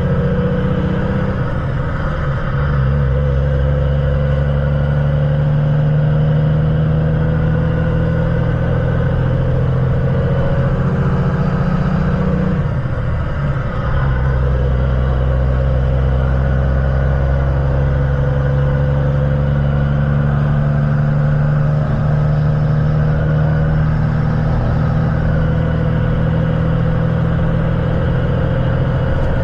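Semi truck's diesel engine droning steadily under way, with a brief dip in the engine note about 13 seconds in before it settles back.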